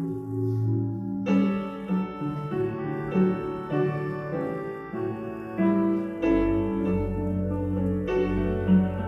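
Piano music: slow, sustained chords with fresh notes struck every second or so, and a deeper bass coming in about six seconds in.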